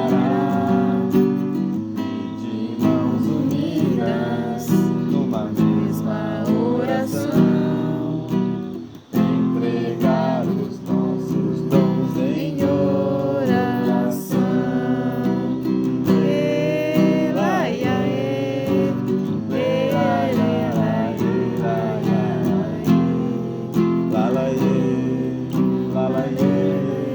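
Acoustic guitar strummed while a voice sings a song, with a brief pause in the playing about nine seconds in.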